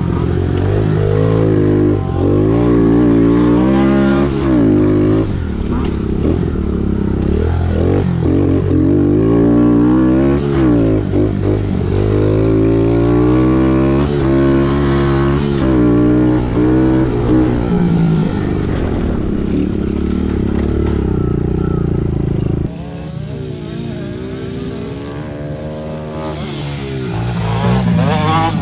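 Dirt bike engines on a motocross track, revving up and falling off again and again as the riders accelerate, shift and back off. About three-quarters of the way through the sound abruptly drops in level, then builds again near the end.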